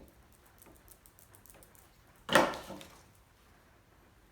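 A single loud knock or thump a little over two seconds in, dying away over about half a second, with a few faint small ticks around it.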